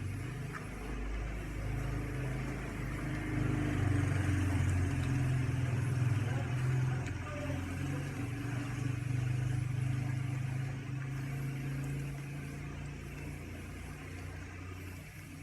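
A motor vehicle's engine running at low, steady revs. It grows louder over the first few seconds, holds, then slowly fades near the end.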